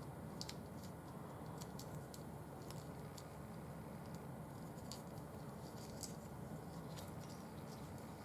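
Faint, irregular small clicks and snips of cutters trimming back the plastic covering around the headlight wires.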